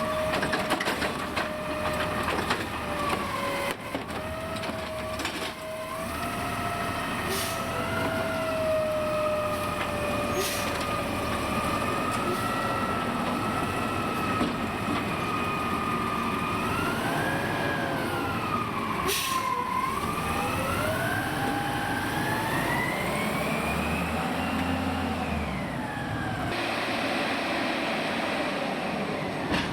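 Autocar side-loader garbage truck revving its diesel engine to drive the hydraulic arm, with a whine that rises and falls in pitch over the cycle. A few sharp bangs come as the recycling cart is slammed and shaken against the hopper.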